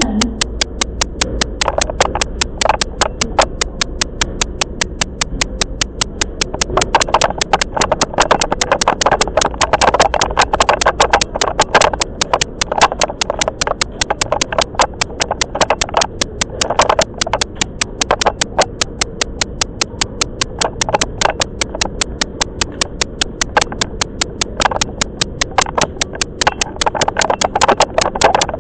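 Inside a 10030-series electric train on the move: running noise with a fast, perfectly even ticking going on without a break.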